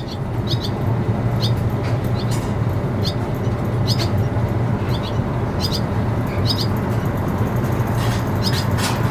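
Swallows giving short, high chirps that repeat irregularly, some in quick pairs, over a steady low background hum.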